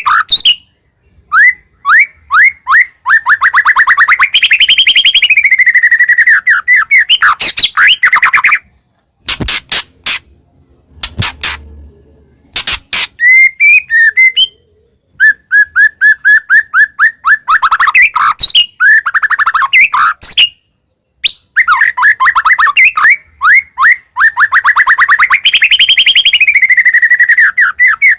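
White-rumped shama (murai batu) in full song: long runs of rapid, loud repeated notes and trills, with gliding phrases and short pauses between bursts. A few sharp clicks come in a quieter stretch in the middle.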